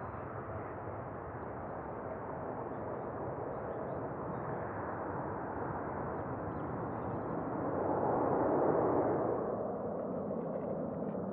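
Airbus A350-941's Rolls-Royce Trent XWB jet engines at takeoff power: a steady rushing rumble that swells to its loudest about eight seconds in, then eases as the airliner moves away.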